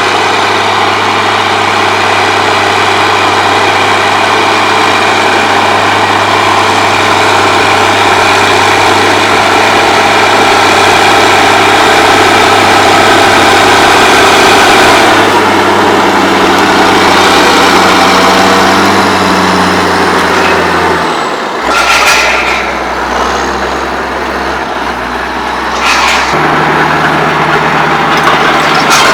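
Case Magnum 7210 tractor's diesel engine running steadily while working a power harrow. Its low note changes a few times past the middle, and there are two sharp knocks, about two-thirds through and again a few seconds later.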